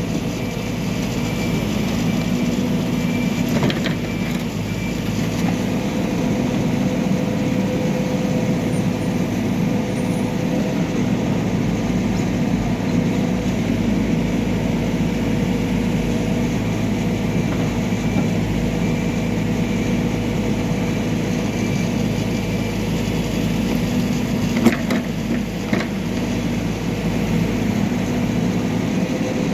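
Backhoe loader's diesel engine running steadily, with two short knocks near the end.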